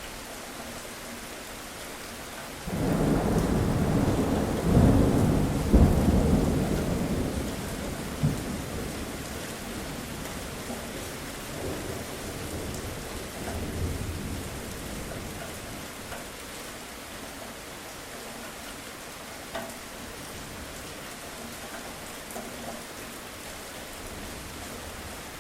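Steady rain falling, with a thunderclap about three seconds in: a sudden loud rumble with sharp cracks that then rolls and fades away over about ten seconds.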